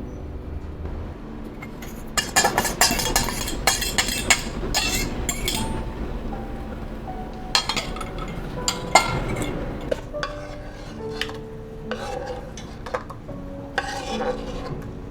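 Hard objects clinking and clattering in irregular clusters, like dishes or utensils being handled and stirred, over faint background music.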